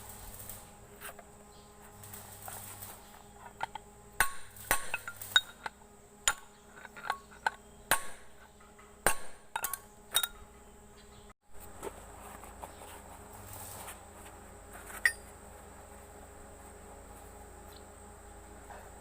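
Metal tools knocking and clinking on tractor parts, about a dozen sharp taps between four and ten seconds in and one more later, over a steady thin high hum.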